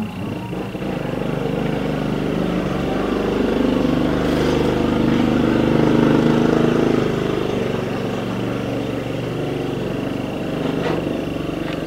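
An engine running steadily, growing louder toward the middle and then easing off, with a thin steady high whine throughout.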